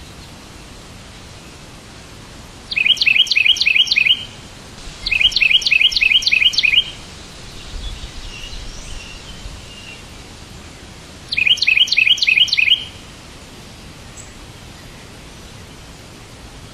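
A songbird singing three bursts of quick, evenly repeated chirps, each about a second and a half long, with fainter calls between them over a steady hiss.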